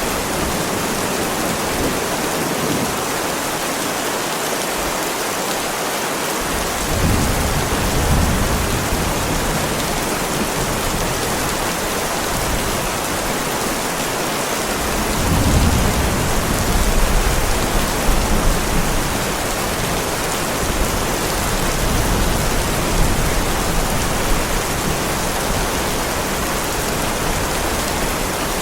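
Heavy rain falling steadily on a driveway, with low thunder rumbling twice, about seven seconds in and again around fifteen seconds in, the second rumble longer.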